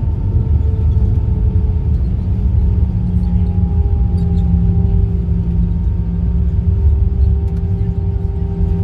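Airbus A319 cabin noise around the landing: a loud, steady low rumble of engines and airflow, with an engine hum whose pitch drifts slowly down.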